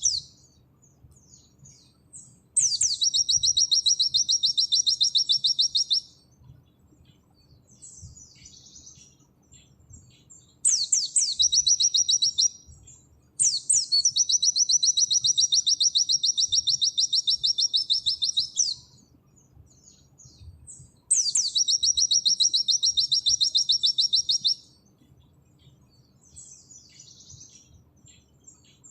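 Pleci (white-eye) singing in the 'nembak' style: four long, very rapid high trills of a few seconds each, each opening with a quick downward sweep, with soft scattered chirps in the gaps.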